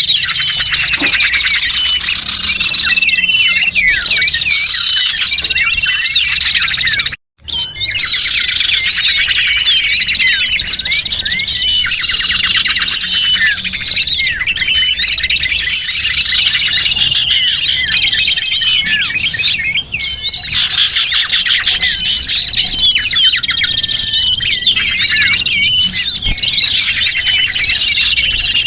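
A dense chorus of many small birds chirping and twittering over one another, played as a bird-lure recording. The sound cuts out completely for a split second about seven seconds in.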